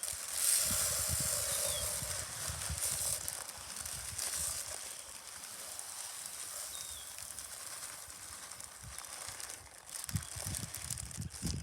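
Small hand-held seed spreader and its load of seed: a continuous rattling hiss with fine ratchety clicks, dying down partway through, and a few dull handling thumps near the end.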